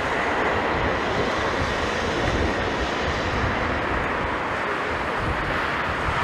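Jet airliner engines running with a steady roar, with gusty wind rumbling on the microphone underneath.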